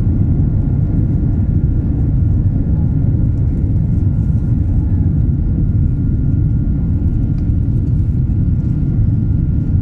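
Steady airliner cabin noise: the constant rumble of the jet engines and airflow heard from inside the passenger cabin, with a thin steady whine above it.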